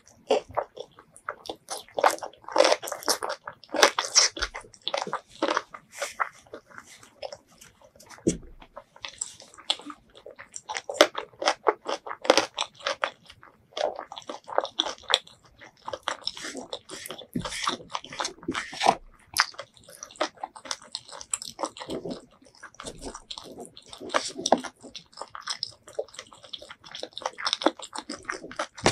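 A person chewing and biting into chicken in butter curry sauce close to the microphone: wet mouth smacks and crunches at an irregular pace.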